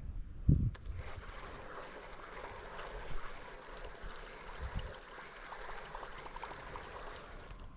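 Water gurgling and trickling around a moving canoe, as from paddling, with a short low thump about half a second in.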